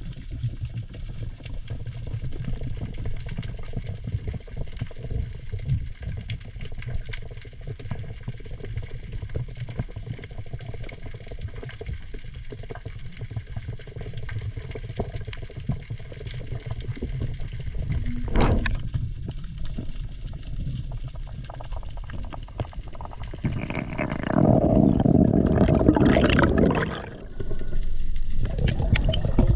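Water sounds from a freediving spearfisher: a steady low water rumble, with one sharp click about eighteen seconds in. Near the end comes a louder rush of water and bubbles lasting a few seconds.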